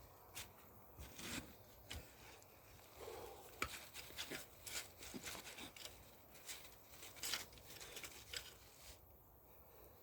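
Faint, irregular rustling and crackling from garden debris being handled: a string of short crackles and ticks that dies down about nine seconds in.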